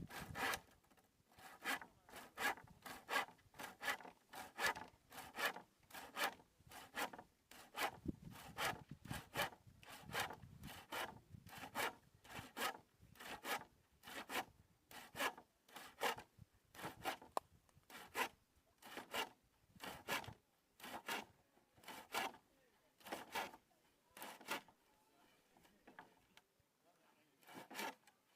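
Hand tool working wood in steady back-and-forth strokes, about two a second, with a short pause near the end.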